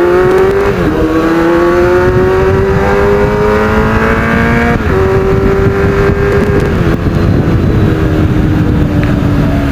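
Kawasaki Z800's inline-four engine accelerating through a gear, its pitch rising slowly. Just under five seconds in the pitch drops sharply at a gear change, then the engine holds steady and eases off gently toward the end.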